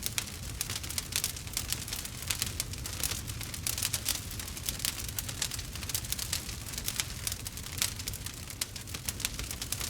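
Wood fire burning with dense, irregular crackling and popping over a steady low rumble of flame.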